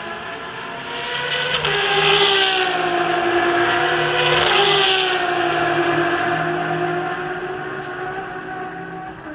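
Ferrari race car engines at high revs. The pitch drops sharply twice, about a second and a half in and again near the middle, each time with a loud rush, and then the sound slowly fades away.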